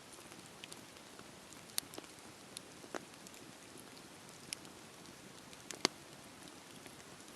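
Wood bonfire crackling: a faint steady hiss with scattered sharp pops and snaps, the loudest pop about six seconds in.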